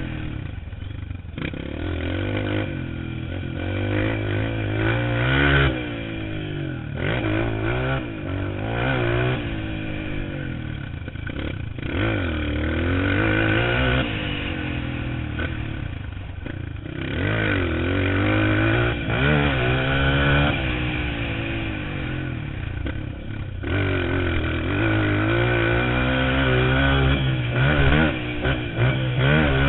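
Motocross bike engine being ridden hard, its pitch rising and falling over and over as the throttle is opened and closed and the rider shifts, with a sharp drop every few seconds.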